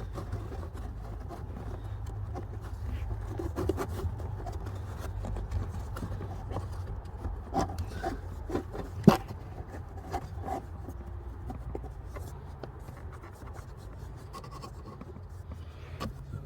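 Hands working on plastic trim and parts under a car's dashboard: rubbing and scraping with scattered clicks, and one sharp click about nine seconds in, over a steady low hum.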